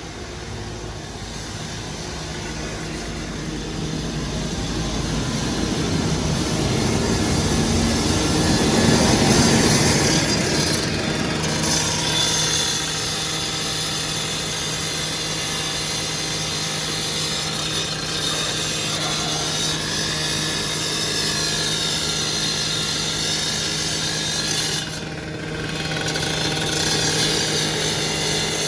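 Loud, continuous rasping machine noise that builds over the first several seconds, then holds steady with a low hum underneath.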